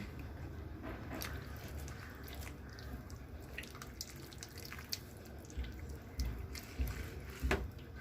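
Hands tying thread around a wet, masala-coated whole chicken: soft wet squishing with scattered small clicks and ticks, which come more often near the end, the loudest a little after seven seconds.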